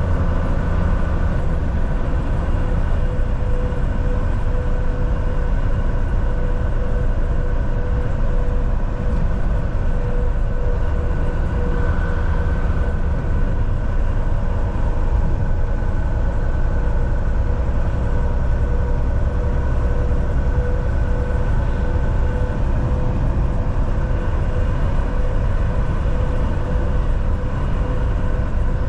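Volvo VNL 760 semi-truck cruising on the highway: a steady low engine drone and road noise, with a steady mid-pitched whine running through it.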